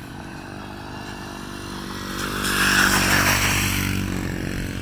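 Small off-road motorbike engine running at a steady pitch, growing louder to a peak about three seconds in, then easing off a little.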